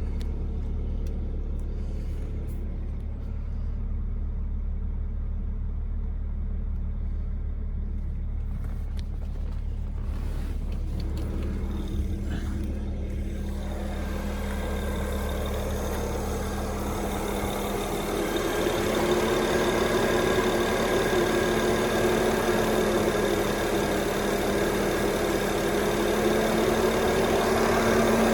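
2008 BMW 535i's N54 twin-turbo straight-six engine running with a steady note. It grows louder and fuller about halfway through.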